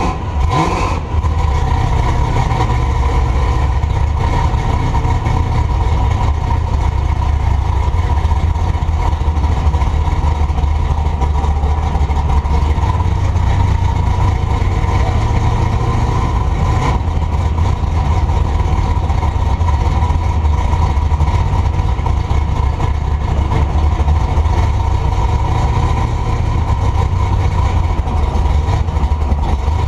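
Truck engine and exhaust running steadily without revving, heard from a camera mounted at the back of the truck, with a brief knock just under a second in.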